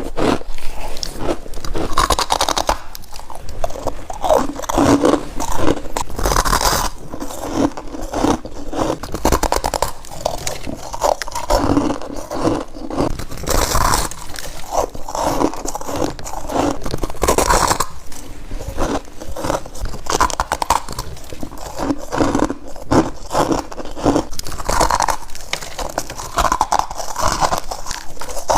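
Close-up biting into crunchy frost, one crisp crunching bite after another without pause.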